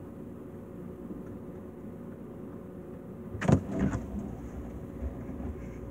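Refrigerator running with a steady hum, heard from inside the fridge. About three and a half seconds in comes one loud thump, followed by a brief rattle of things inside.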